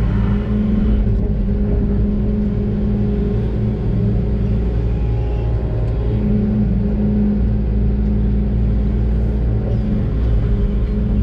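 Doosan DX600 excavator's diesel engine running steadily under load, a deep rumble with a steady hum over it. The hum drops away for a couple of seconds about halfway through, then comes back.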